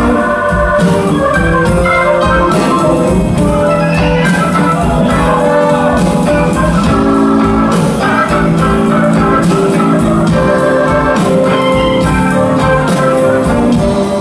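A blues band playing an instrumental break of a slow blues live, with no vocals: held chords over a steady drum and bass beat.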